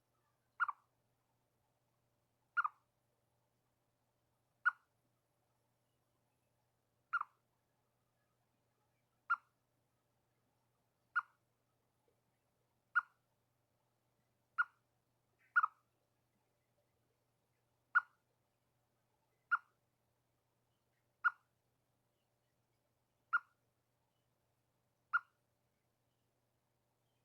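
Chipmunk giving its alarm chirp at birds: single short, sharp chips repeated at a slow, fairly even pace of about one every two seconds, fourteen in all.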